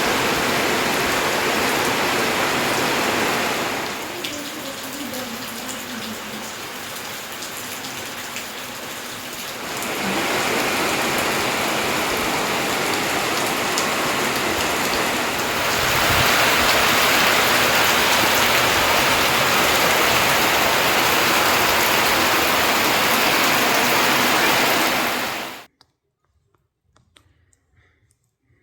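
Rain falling, a steady hiss that drops to a quieter level for several seconds, comes back, grows louder, then cuts off suddenly near the end into near silence.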